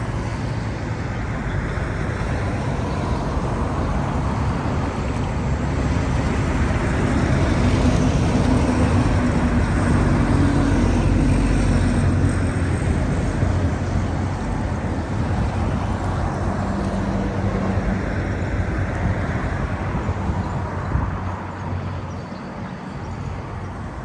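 Road traffic going by, with a vehicle's engine hum swelling to its loudest about 8 to 12 seconds in and then fading.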